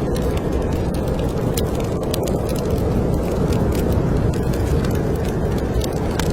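Wood fire crackling in a fireplace, with scattered sharp pops and ticks, over a steady low rumble of snowstorm wind.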